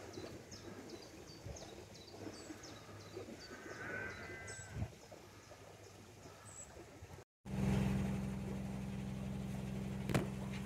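Faint waterside ambience with small birds chirping rapidly and a short animal call about four seconds in. After an abrupt cut, a louder steady low electric hum.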